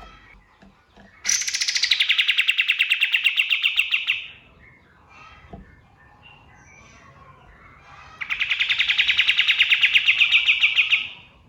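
Kapas tembak (black-winged flycatcher-shrike) calling in two long, fast trills of sharp, rapidly repeated high notes, about eight a second. Each trill lasts about three seconds, the first starting about a second in and the second about eight seconds in. Faint chirps from other birds can be heard between them.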